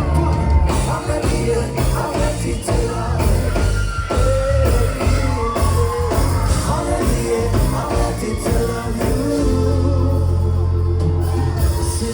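Live band performing a song, a singer's voice over a heavy, sustained bass line.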